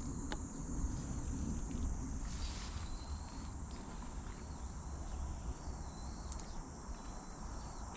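Steady high-pitched chorus of summer insects in the vineyard, over a low rumble, with a few faint clicks and short chirps.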